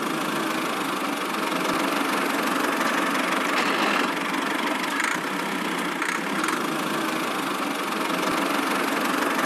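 A small motor running steadily with a dense mechanical whirr, with a few faint ticks here and there.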